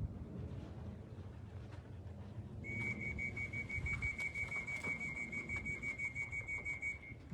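A high-pitched beeping at one steady pitch, rapid even pulses about five a second, starting almost three seconds in and stopping shortly before the end.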